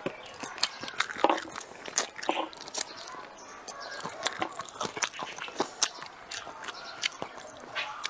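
Close-up eating sounds of a person chewing and biting tiger skin chicken feet: irregular wet smacks and sharp clicks, several each second.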